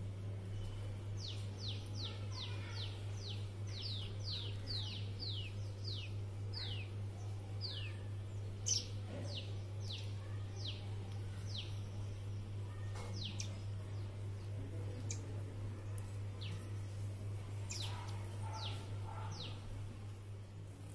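Birds chirping: short, high calls that each fall quickly in pitch. They come in a fast run of several a second over the first few seconds, then more sparsely, over a steady low hum.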